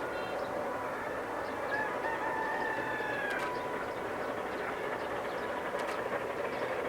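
A rooster crows once, about two seconds in, over the steady running noise of a narrow-gauge C2 steam train.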